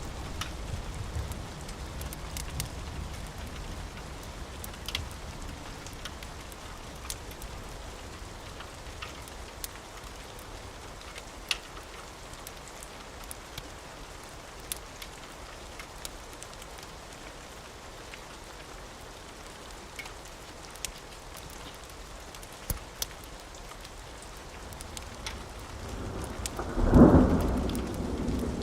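Steady rain with scattered sharp clicks and a low thunder rumble that dies away in the first few seconds. Near the end a loud thunderclap breaks and rumbles on.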